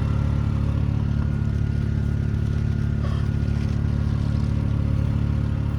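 An engine running steadily at an even speed, with a low, fast, even pulse.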